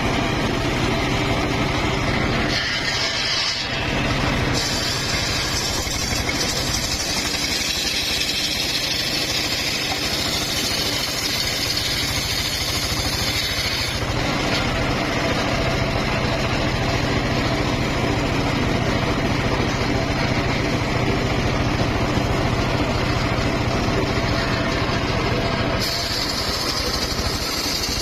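Circular saw machine running with a steady engine-like drone, a higher hiss over it that grows and fades a few times.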